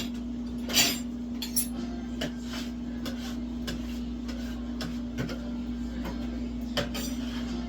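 Butcher's knife work on a lamb carcass: scattered metallic clicks, taps and scrapes of the blade, the loudest about a second in, over a steady low hum.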